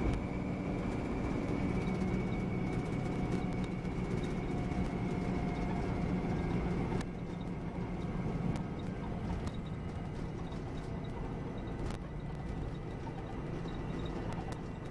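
Volvo B9R coach's six-cylinder diesel engine running while under way, with scattered interior rattles and clicks. About seven seconds in, the engine note eases and the sound drops a step.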